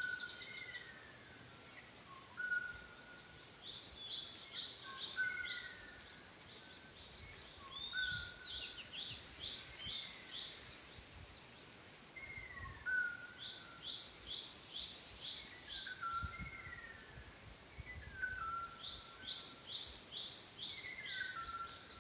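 Wild birds singing. One bird repeats a quick phrase of about five or six high, rapid notes roughly every five seconds, while another gives short falling whistles at a lower pitch between them, over a faint steady outdoor background.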